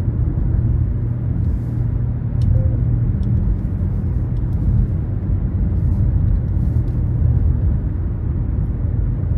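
Inside the cabin of a 2023 Nissan Rogue being driven: a steady low rumble of the 1.5-litre turbocharged three-cylinder engine working through its CVT, mixed with road and tyre noise.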